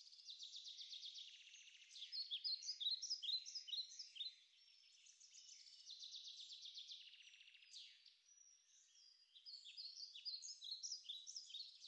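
Faint birds chirping, in four bursts of quick high chirps, each a second or two long, with short gaps between.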